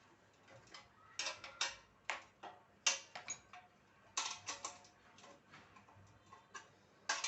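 Irregular clusters of sharp clicks and light clatter, with pauses between them, as sewing machine parts are handled and fitted together.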